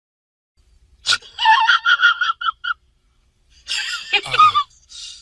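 A high-pitched, voice-like sound effect: after a second of silence, a run of short squeaky notes, then a second, shorter burst after a pause.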